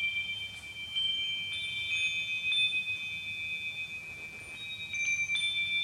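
Wind chimes ringing: several high, clear tones struck at irregular moments, each ringing on and overlapping the others.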